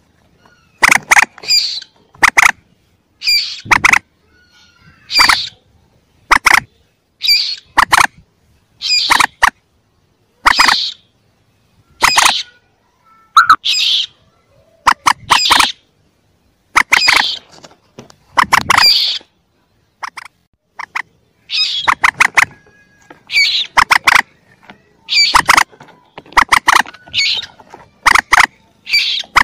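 Mandar chick calls: short, sharp, squeaky calls repeated every second or two. Each call is a quick cluster of clicks. This is a lure recording of the kind hunters play to draw mandar to them.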